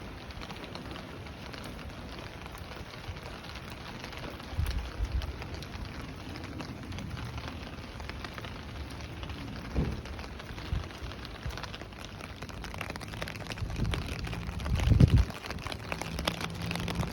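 Steady rain falling, an even patter, with a few low rumbling swells about 5, 10 and 15 seconds in.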